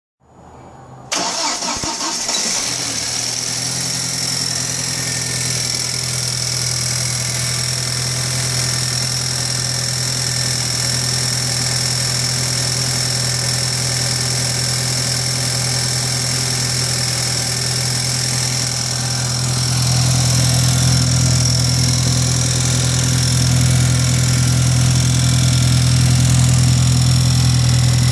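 2003 Audi A4's 1.8-litre turbocharged four-cylinder engine catching about a second in, then idling steadily, a little louder about two-thirds of the way through. It carries a ticking noise that a new head gasket and timing belt, with the timing marks lined up, have not cured; the cause is unknown to the owner.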